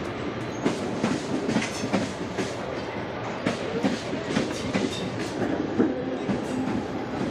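Express train's wheels running over the track: a steady rumble broken by irregular metallic clacks as the wheels cross rail joints and points.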